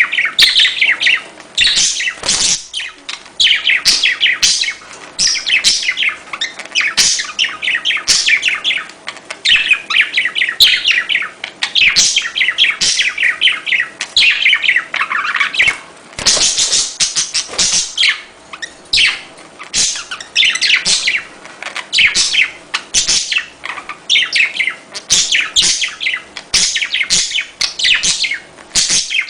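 Budgerigars chattering and warbling: a dense, fast run of high chirps and warbles, almost without pause.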